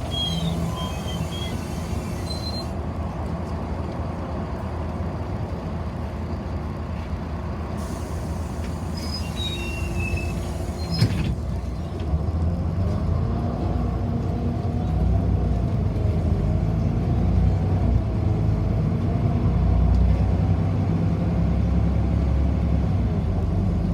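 City bus heard from inside the cabin: a steady low rumble, a sharp burst of noise about eleven seconds in, then louder running with a wavering whine as the bus pulls away and picks up speed.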